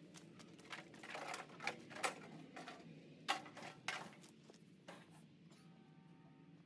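Scattered light clicks and knocks, about a dozen at irregular intervals, the loudest about two and three seconds in. Near the end a faint steady tone of several pitches is heard.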